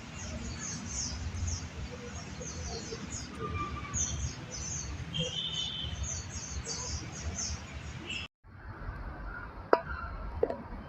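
Many small birds chirping: a dense run of short, high chirps over a low background rumble. The sound cuts off abruptly after about eight seconds, then a quieter background follows with a sharp click.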